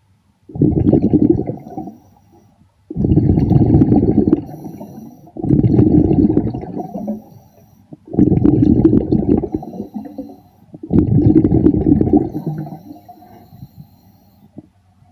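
A diver's exhaled breath bubbling out underwater in five rumbling gushes, one every two and a half to three seconds.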